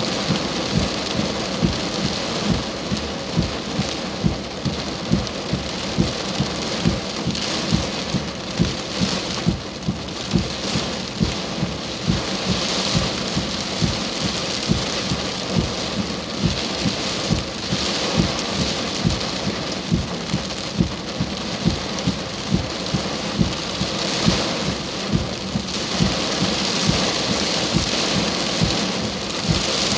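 Heavy thunderstorm rain pouring steadily, with frequent heavy drops striking close by as short dull thumps, about one or two a second.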